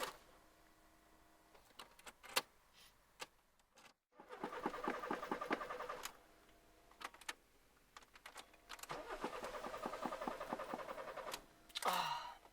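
Cold VW Polo Mk2 engine cranking on the starter without catching, in two attempts of about two seconds each, with small clicks in the pause between. A short rising sound comes near the end.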